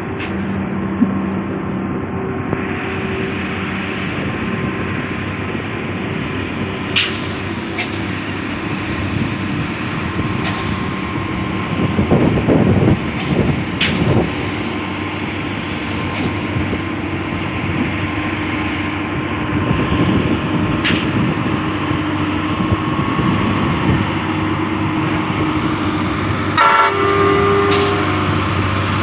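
Hino trucks running along a highway: a steady rumble of engine and tyre noise, louder for a couple of seconds about halfway through, with a brief horn-like tone near the end.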